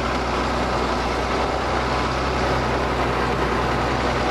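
Ford TW tractor's diesel engine running steadily under load while pulling a plough.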